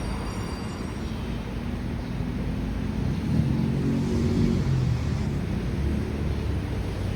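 Honda Civic Type R (FL5) 2.0-litre turbo four-cylinder with a newly fitted aftermarket exhaust, running with a steady low drone. A stronger pitched exhaust note comes up between about three and five seconds in.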